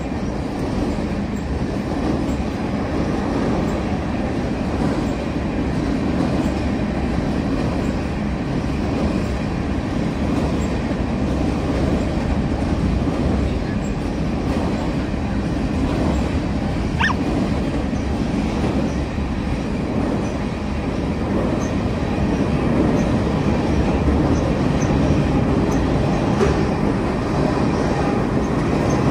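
Freight train cars rolling across a riveted steel truss bridge, a steady, continuous rumble throughout, with a brief high-pitched squeal a little past halfway.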